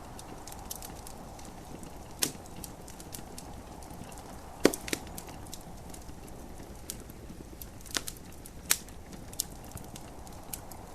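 Wood fire in a fireplace crackling, with a handful of sharp pops, the loudest about halfway through and two close together near the end, over a steady hiss of gentle rain.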